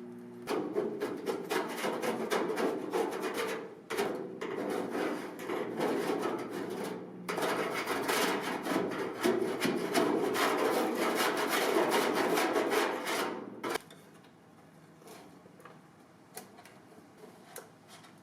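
Fast, repeated rubbing strokes of hand scrubbing on a surface, with short breaks about four and seven seconds in, stopping about fourteen seconds in; a few faint clicks follow.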